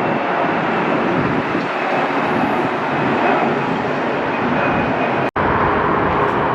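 Jet airliner engines, a loud steady rush of engine noise with a faint high whine, broken by a sudden, very short dropout about five seconds in.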